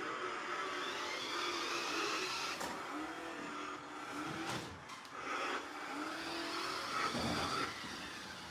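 Toy remote-control monster truck playing engine-revving sound effects through its built-in speaker, the revs gliding up and down over and over.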